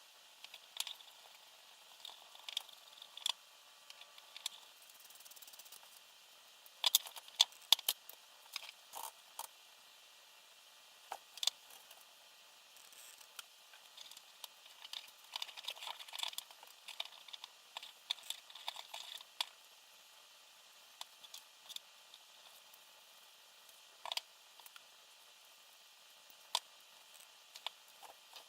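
Small parts of a quadcopter frame kit being handled during assembly: irregular sharp clicks, taps and light rattles, with busier stretches about a quarter of the way in and again past the middle.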